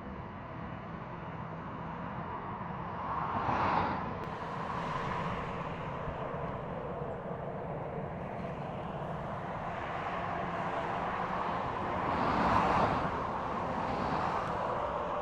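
Jet aircraft engine running with a steady rushing noise that swells twice, about four seconds in and again near the end.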